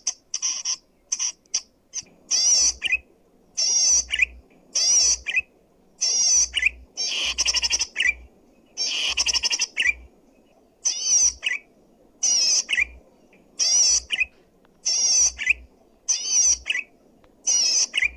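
A cici padi (cisticola) singing loudly and clearly. It gives short, quickly warbled, scratchy phrases, each about half a second to a second long, repeated about once a second with brief pauses between them.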